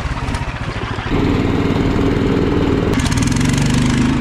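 Small engine of a Snow Dog tracked power sled running under throttle, getting louder about a second in and then holding a steady speed.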